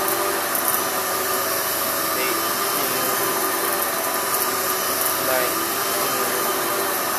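Kenmore 600 series bagless upright vacuum cleaner running steadily, its power nozzle being pushed in slow passes over sand-sprinkled carpet to pick up the sand.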